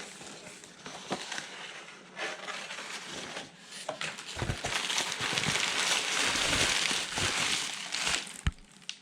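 Cardboard box and packing material being torn and rustled open, with scattered clicks and knocks; the crinkling grows denser and louder about halfway through.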